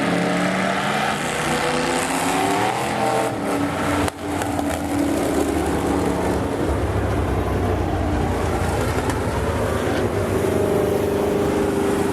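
Several demo race cars' engines running and revving together on a speedway oval, their pitches rising and falling as they accelerate and lift, with a brief drop in sound about four seconds in.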